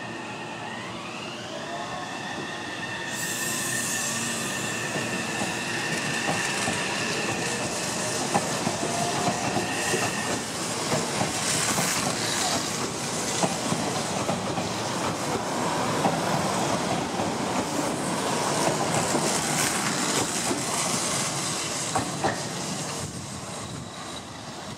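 Meitetsu 1700-2300 series electric train pulling away: the electric drive whines in tones that rise in pitch as it accelerates, with a brief hiss about three seconds in. Then the cars pass close by with wheel rumble, squeal and repeated clacks over the rail joints, fading near the end.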